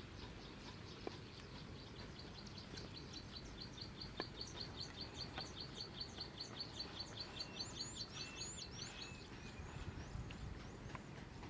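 A small bird chirping in fast, evenly repeated high notes that quicken a couple of seconds in, with a few upward-swooping calls before it stops. Now and then a light knock of a cleaver on a wooden chopping board.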